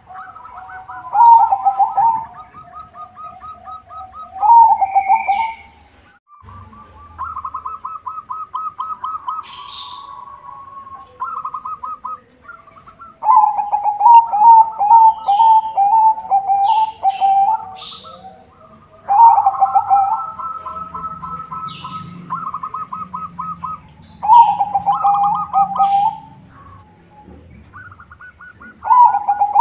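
Zebra dove (perkutut) cooing in repeated rhythmic trilled phrases, each lasting one to three seconds, with softer coos in between. Faint short chirps sound higher above.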